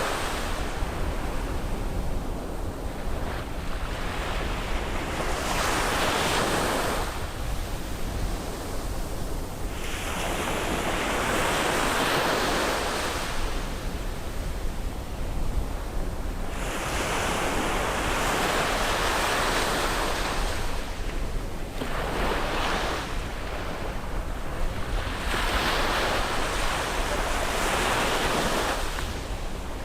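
Sea waves breaking and washing up on the shore, surging in about every three to four seconds over a steady low rumble of surf.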